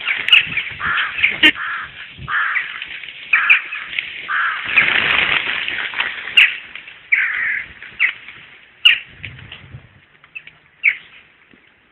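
Birds calling outdoors in winter, a run of short repeated calls that thin out and fade over the last few seconds.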